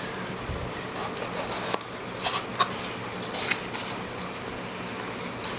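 A few light clicks and short scrapes from handling small parts of a headlight projector assembly, its glass lens set down and picked up, over a steady low hum.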